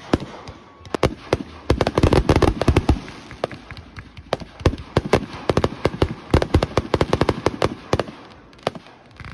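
Fireworks display: a rapid, irregular barrage of sharp cracks and bangs from bursting aerial shells, thickest about two seconds in and again in the middle, easing off briefly near the end.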